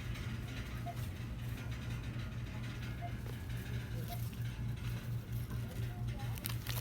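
Steady low hum of a shop's background, with faint short chirps about once a second. Brief crackly rustling of handled packaging comes in just before the end.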